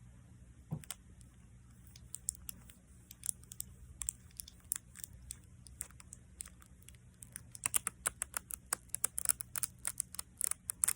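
Sticky adhesive tape crackling and clicking as it is pressed and pulled apart close to the microphone: scattered sharp clicks at first, coming thick and fast about three-quarters of the way through.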